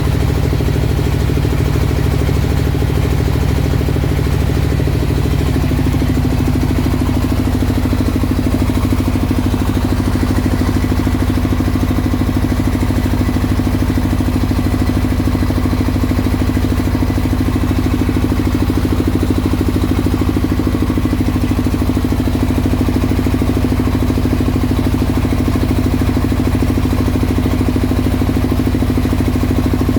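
Single-cylinder rice mill engine running steadily at constant speed, with an even, rapid beat from its firing strokes.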